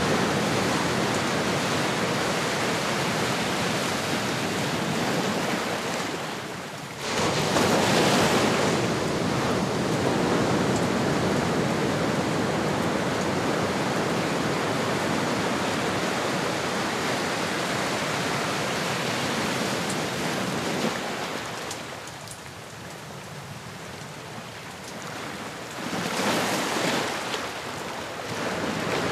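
Ocean waves washing on a shore in a steady hiss of surf. A big wave surges in about seven seconds in, the surf eases into a quieter lull past the twenty-second mark, and another wave swells in near the end.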